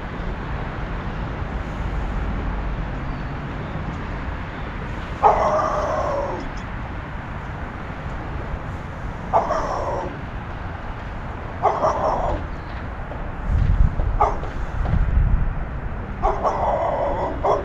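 A dog barking about five times, spaced out over several seconds, with wind rumbling on the microphone underneath.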